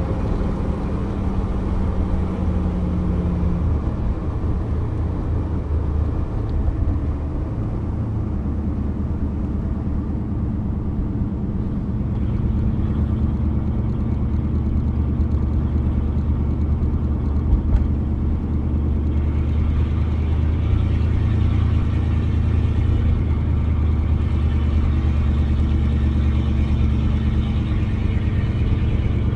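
1987 Pontiac Firebird Trans Am's 5.7-litre TPI V8 running on the road, heard from inside the cabin. Its note eases off about four seconds in, then picks up again about twelve seconds in and holds steady.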